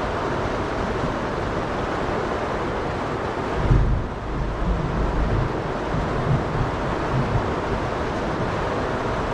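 Heavy storm rain and wind on a houseboat, a steady hiss, with a low rumble rising about three and a half seconds in and lasting a second or so.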